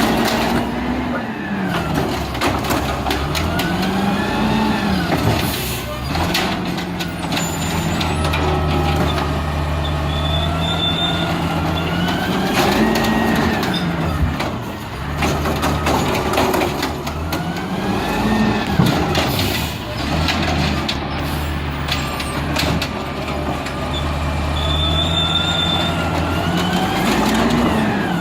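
Garbage truck's diesel engine repeatedly revving up and dropping back, about every four to five seconds, with sharp clanks in between: the automatic rev that powers the hydraulic arm as it lifts and dumps trash carts.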